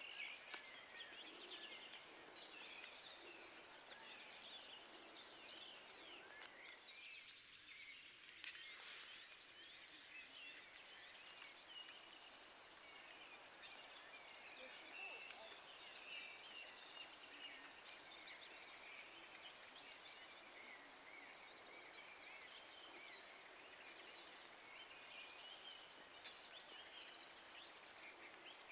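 Faint chorus of small birds singing and calling, a steady scatter of chirps and quick trills.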